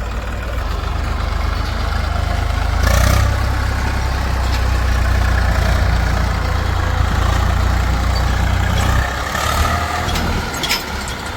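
Heavy diesel engine running; it grows louder about three seconds in, as if working under load or revved, and eases back near the end.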